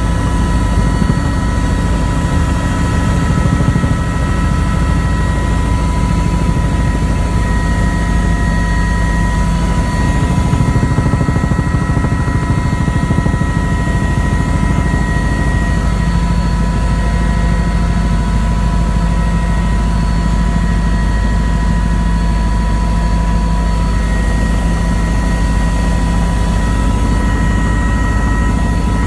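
Helicopter in steady flight, heard from on board: a constant loud rotor and engine noise with several steady whining tones that do not change.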